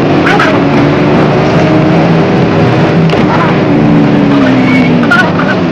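Motorcycle engine running while riding, with a steady rush of wind and traffic noise; the engine note drops between about three and a half and four and a half seconds in.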